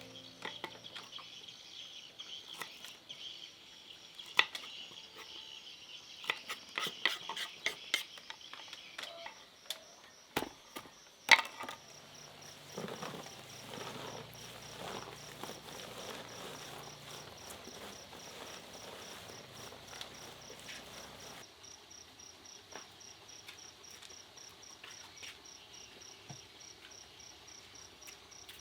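Insects chirping: a steady, fast-pulsing high trill, with a scatter of sharp knocks and clicks over the first dozen seconds, the loudest about 11 seconds in.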